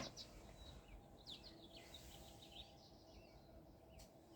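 Faint outdoor ambience with birds chirping: a quick run of short, high chirps about one to three seconds in. A brief click at the very start.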